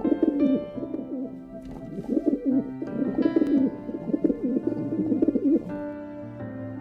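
A pigeon cooing in repeated bouts of low, wavering coos over soft background music. The cooing stops near the end, leaving only the music.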